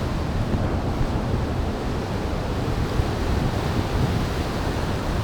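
A waterfall's water pouring steadily close by, a loud, even rush, with wind buffeting the microphone in uneven low gusts.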